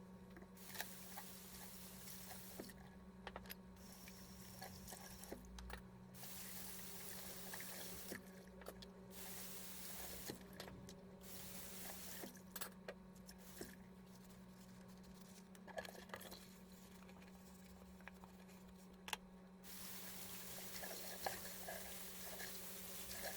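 Water running in spells of a few seconds, with small clicks and knocks, over a steady low hum.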